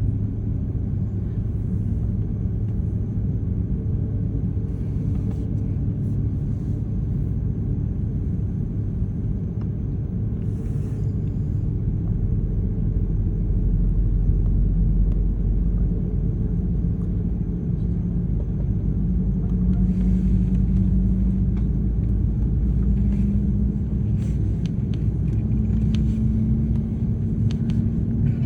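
Airbus A330-300 jet engines running during engine start: a steady low rumble with a humming tone that climbs in pitch over the second half as an engine spools up. A few faint clicks sound on top.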